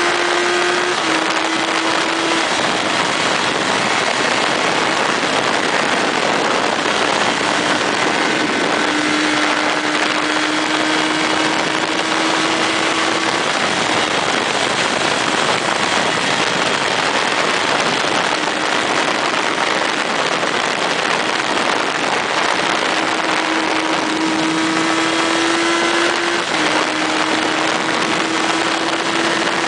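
Motorcycle engine running at road speed under heavy wind rush. Its note creeps up in pitch and steps down with a gear change about a second in and again near the end, and it fades into the wind for a few seconds in the middle.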